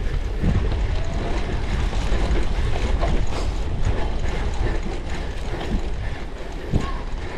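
Cyclocross bike rattling and clicking as it is ridden over rough ground, with chain and drivetrain ticking and frequent small knocks over a steady low rumble.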